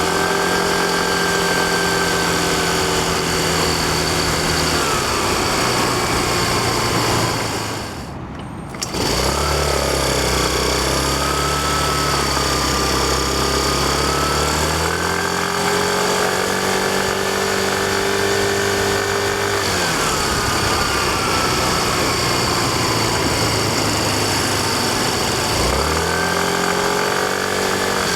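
Yamaha Fazzio scooter's 125 cc single-cylinder engine running on the move, its pitch rising and falling as the throttle opens and closes, over steady wind and road noise. The sound drops away briefly about eight seconds in.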